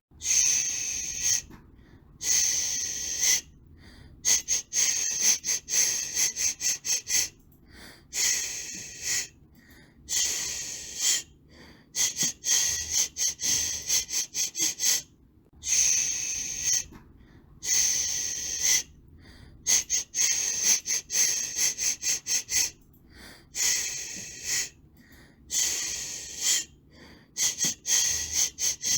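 High-pitched hiss of white noise for soothing a baby, coming in bursts of a second or two that cut out briefly and flicker between, like a repeated "shhh".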